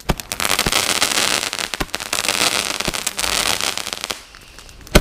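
Fireworks going off: a dense run of rapid crackling and popping for about four seconds, then a quieter stretch and a single loud bang at the very end.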